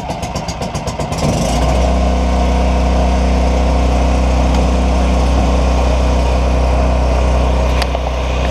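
Champion portable generator being started for the first time: its engine cranks over with a rapid chugging, catches about a second in, and settles into a steady run.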